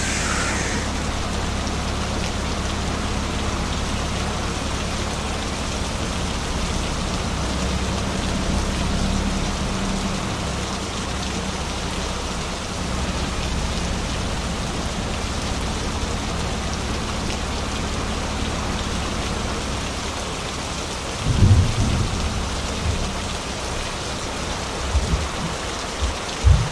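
Steady rain-like hiss over a low truck engine drone that fades after about twelve seconds, with a few heavy low thumps near the end.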